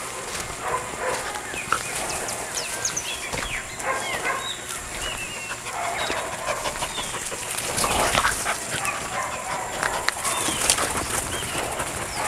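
Birds chirping, many short calls scattered throughout, with a louder, rougher sound about eight seconds in.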